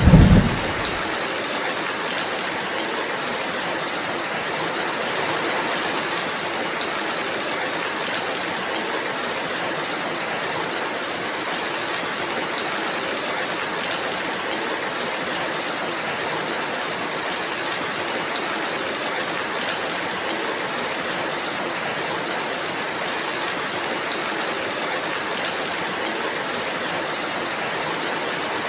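Steady rainfall, an even hiss of many drops. A low rumble of thunder dies away in the first second.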